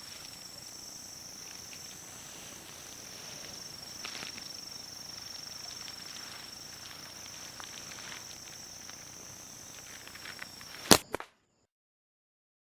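Steady high-pitched drone of insects with scattered faint ticks and rustles. Near the end comes a single loud sharp snap, after which the sound cuts out to dead silence.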